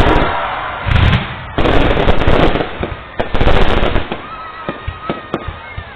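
Aerial fireworks bursting: several loud booms and rushing crackle in quick succession over the first four seconds, then a scatter of shorter, sharper pops.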